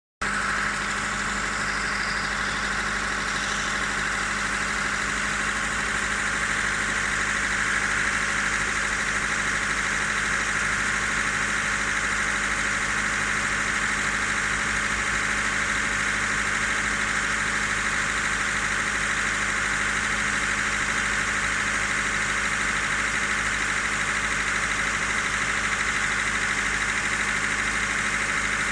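Car engine idling steadily during a cold warm-up with a rapid knock from the lower part of the engine. The knock shows at about 1100–1500 rpm and goes away as the engine warms; its cause is unknown to the owner.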